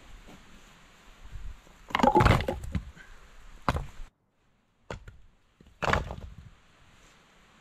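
A few sharp cracks and knocks of wood, the loudest a quick cluster about two seconds in, the others single and spaced over the following few seconds.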